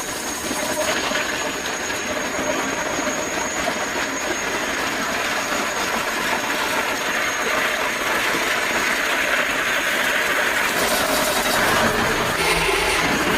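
Plastic rope-making machinery running steadily: a dense mechanical noise with a thin, high-pitched whine over it.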